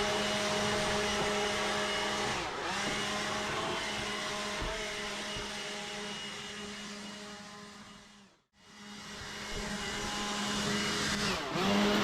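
Electric blower running with a steady motor whine while blowing drifted snow out. It dips briefly about two and a half seconds in, winds down to a stop about eight seconds in, then starts again and spins back up, with another short dip near the end.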